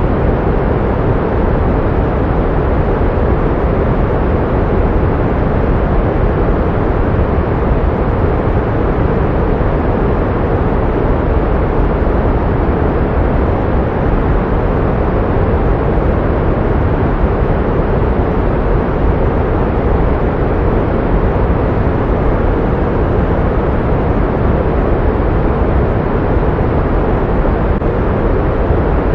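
Steady pink noise: an even, unchanging hiss with more weight in the low end than in the highs.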